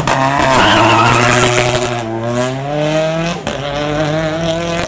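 Rally car's engine pulling away hard from a standing start, its pitch climbing, dropping at a gear change about three and a half seconds in, then climbing again.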